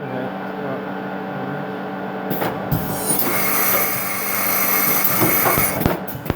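Hurco WMX1 machine running after repair, with a steady hum throughout. A hiss with a high whine joins it from about three seconds in and stops just before a few sharp clicks near the end.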